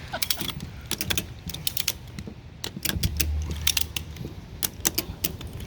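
Ratchet strap being cranked to pull a car onto a trailer: the ratchet's pawl clicks in quick, irregular runs. A brief low hum comes in about three seconds in.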